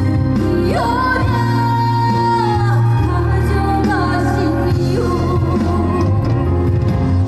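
Female trot singer singing live with band accompaniment; about a second in her voice slides up into a long held note.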